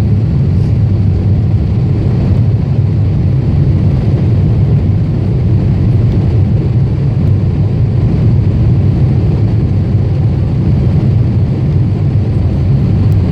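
Steady low rumble of a Boeing 747-8's engines and airflow heard from inside the passenger cabin, even in level and pitch throughout.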